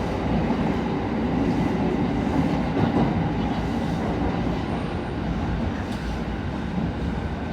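Electric train running along the track: a steady rumble of wheels and running gear.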